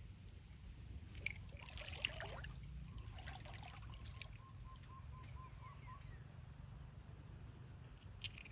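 Water trickling and sloshing faintly in shallow river water, with a couple of sharp clicks between one and two seconds in.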